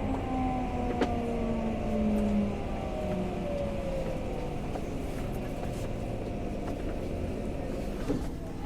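Tokyo Metro 05 series train's Mitsubishi IGBT VVVF inverter whining in several falling tones as the train brakes, over steady wheel and track rumble heard from inside the car. The whine fades after about three seconds, leaving the rumble as the train slows.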